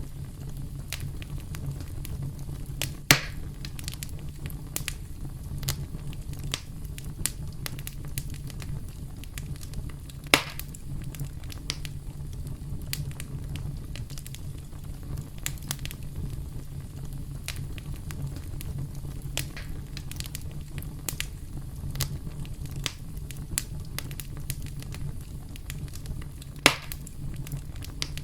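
Campfire crackling: a steady stream of small snaps over a low, steady rumble, with three sharp, louder pops at about 3, 10 and 27 seconds in.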